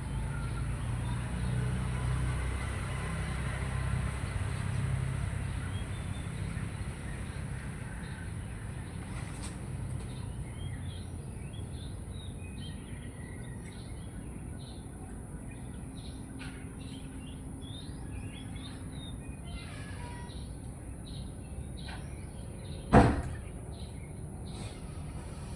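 Outdoor morning ambience: a low rumble of distant traffic fades over the first ten seconds, while birds chirp with many short calls, and a steady high hiss runs underneath. One sharp knock about 23 s in is the loudest sound.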